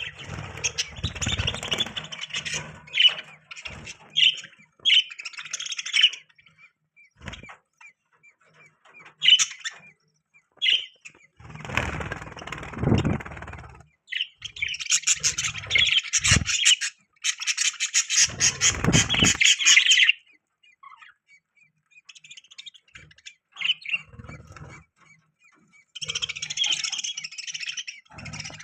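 Budgerigars chirping in quick, twittering bursts separated by short pauses, with a couple of spells of low rustling noise mixed in.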